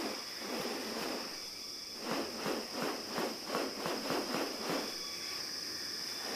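Rainforest ambience: insects droning at a steady high pitch, joined about two seconds in by a rapid run of pulsed sounds, about four a second, that stops near the end.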